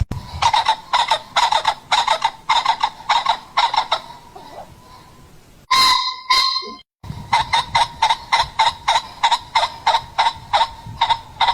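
A bird making short calls over and over, about two to three a second. About six seconds in they break off for one slightly longer call and a moment of silence, then start again.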